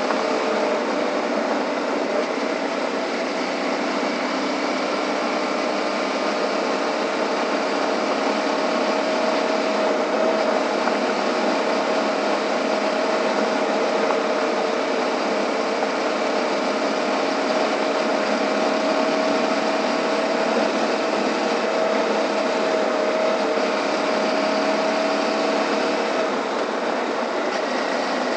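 Suzuki V-Strom 650's V-twin engine running at a steady cruising speed on a gravel road, its note creeping slightly higher and easing off near the end, under a constant rush of wind and road noise.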